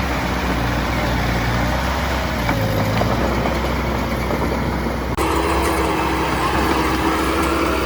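Heavy diesel engine of earthmoving machinery running steadily. About five seconds in the sound changes abruptly, and a steady high whine rides over the engine from then on.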